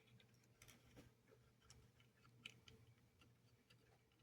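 Near silence: a few faint, irregular small clicks, as of small plastic model parts and wires being handled, over a faint steady hum.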